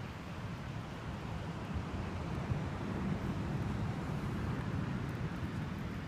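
Steady low rumble of wind buffeting the microphone, mixed with the wash of ocean surf, slightly louder from about halfway in.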